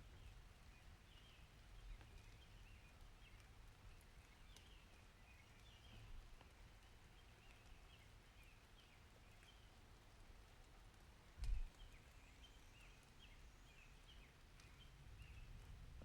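Faint outdoor ambience: a low wind-like rumble with scattered small high chirps, and one sharp knock a little past halfway.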